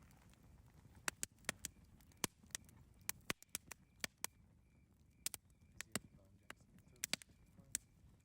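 Campfire crackling: irregular sharp pops and snaps of burning wood, one to three a second, over a low steady rumble of the fire.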